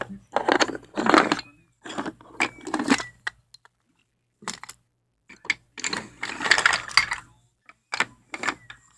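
Wooden toy train track pieces clattering and knocking together as they are handled and fitted into a layout, in several irregular bursts with short pauses between.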